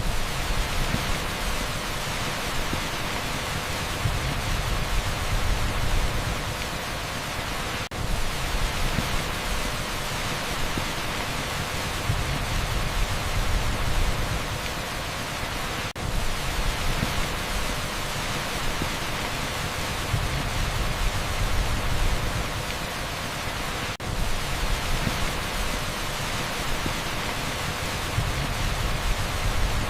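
Torrential rain on a street blended with heavy pink noise: a dense, steady hiss with a low rumble underneath. It dips briefly in level about every eight seconds.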